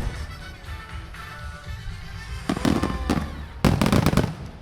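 Fireworks bursting: a few bangs about two and a half seconds in, then a rapid cluster of bursts near the end, with music playing underneath.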